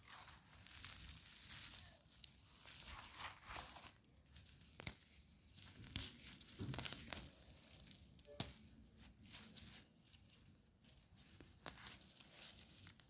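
Irregular rustling and crinkling of garden plants being handled while wood ash is applied to carrots and strawberries, with two sharp clicks about five and eight seconds in.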